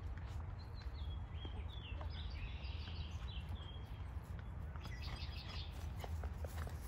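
A songbird singing a run of short whistled notes in the first half, over a steady low rumble. Soft hoofbeats of a horse moving on grass come in the second half.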